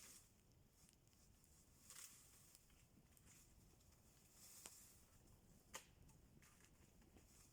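Near silence with a few faint, sharp clicks: one about two seconds in, one just before five seconds and one near six seconds.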